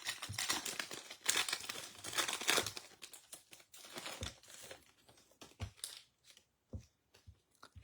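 Foil wrapper of a baseball card pack being torn open and crinkled for the first few seconds, then scattered light clicks and taps as the cards are handled.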